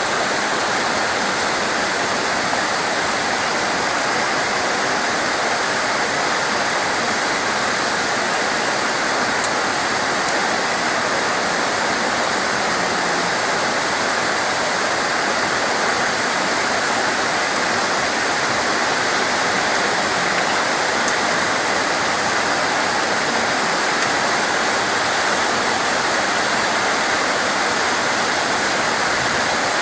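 Heavy rain falling steadily, a dense, even rushing hiss with no let-up, and one brief click about nine and a half seconds in.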